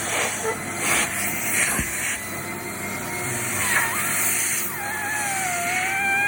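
Vacuum cleaner running with a steady hiss of rushing air; from a little under five seconds in, its motor whine dips and then climbs in pitch.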